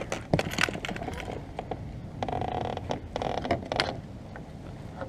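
Fishing gear being rummaged through to get out a fishing scale: a few sharp clicks and knocks, then two short rasps about two and three seconds in.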